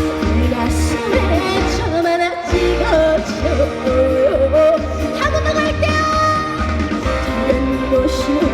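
Trot song performed live: a female voice singing with vibrato over a backing track with a steady bass beat. The bass drops out briefly a little over two seconds in.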